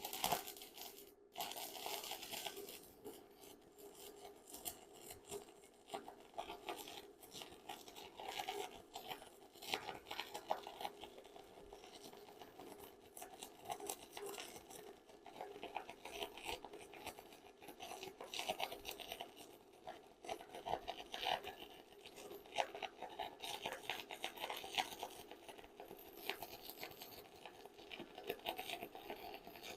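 Stick welding arc on a 6011 1/8-inch electrode from a DC stick welder at about 80 amps: a continuous, irregular crackling as the bead is laid. It starts right away, with a brief break about a second in.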